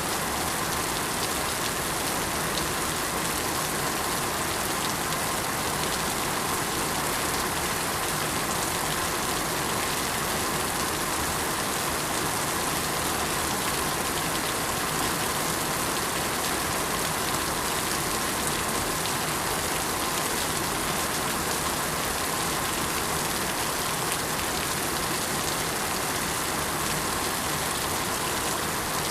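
Steady rain falling on surfaces, an even, unbroken patter of raindrops.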